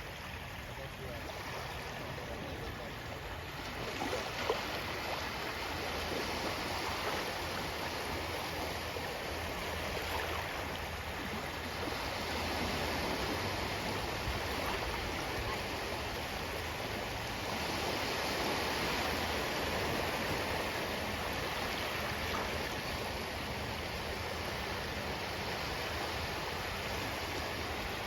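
Ocean waves washing on a shore, a steady rush of surf that swells gently and eases off twice.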